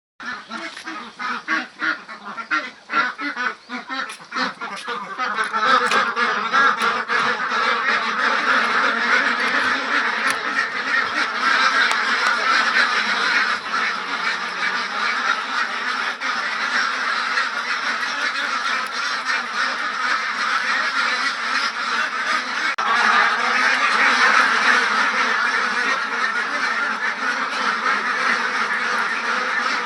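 A flock of young Ratu laying ducks quacking: separate calls at first, building about five seconds in to a dense, continuous chorus of many ducks calling at once.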